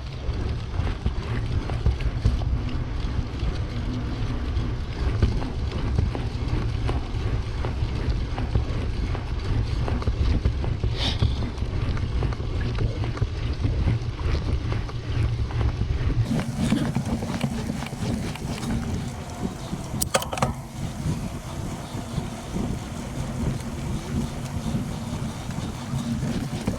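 Wind buffeting the microphone of a camera on a moving bicycle, a dense low rumble. About two-thirds of the way through, the rumble abruptly eases and a steadier, lighter hum takes over.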